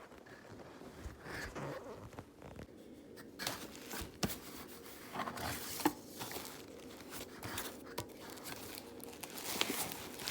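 Packaging being handled and opened: irregular rustling and crinkling with scattered sharp clicks and a little tearing.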